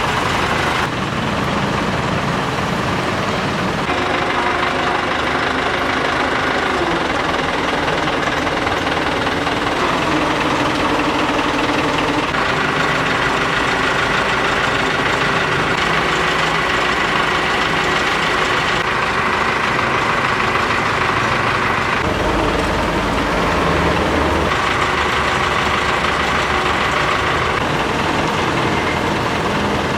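Excavator's heavy diesel engine running steadily, with whining tones that shift in pitch every few seconds.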